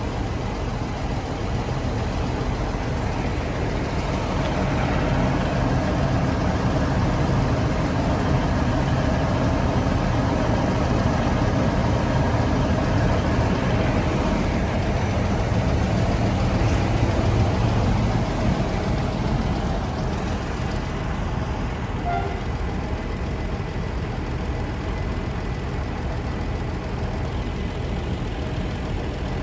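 Electric-hauled passenger train of five coaches pulling out, a steady low rumble of locomotive and wheels on the rails that grows louder through the middle and eases off after about twenty seconds as it moves away.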